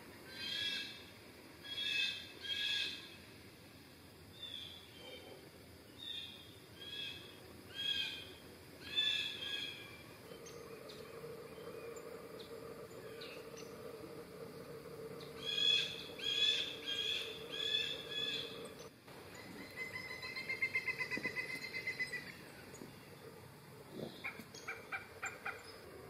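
Wild birds calling in a forest: clusters of short calls repeated every second or so, a quick run of rapid notes past the middle, and a few sharp chips near the end. A faint steady low hum runs under the calls through the middle.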